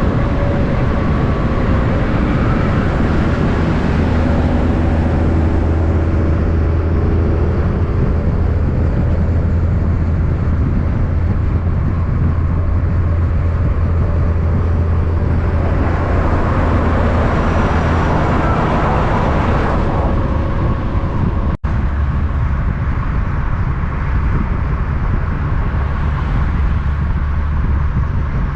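Road traffic with heavy diesel trucks: a steady, loud low engine drone, with a vehicle rushing past between about 16 and 20 seconds in. The sound drops out for an instant about three-quarters of the way through, then the low drone carries on.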